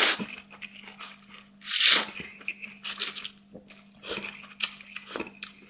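Close-up eating sounds from a person having spicy tofu skin and noodles: several short, hissing slurps or sharp in-breaths, the loudest about two seconds in, with quieter mouth sounds between.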